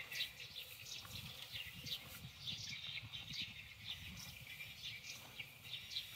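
Small birds chirping busily: many short, high chirps, several a second, over a low, uneven rumble.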